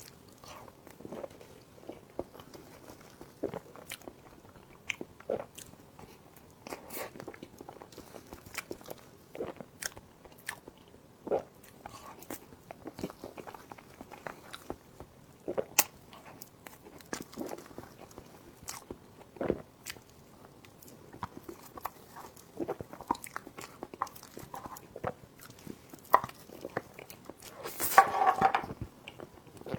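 A person biting and chewing crunchy food close to the microphone: many short crunches and crackles at an irregular pace, with a louder burst of sound near the end.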